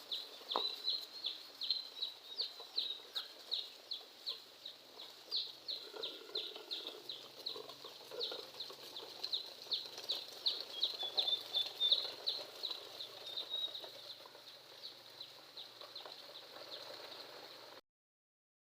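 Young chicks peeping in short, high, evenly repeated calls, about three a second, thinning out after about fourteen seconds. The sound cuts off abruptly near the end.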